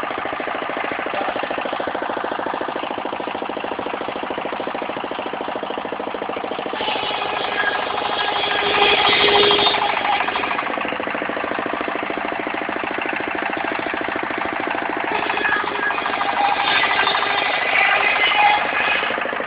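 Engine-driven portable circular sawmill running with a fast, steady chugging pulse. Twice the sound swells louder and harsher as the blade cuts through the wood: once about a third of the way in, and again for a longer stretch near the end.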